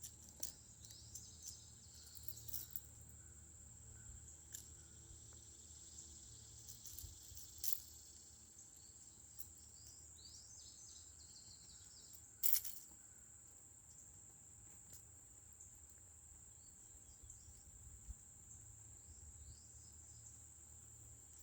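Steady high-pitched drone of insects, with faint short chirps over it. A few light clicks and taps break in, the loudest about twelve seconds in.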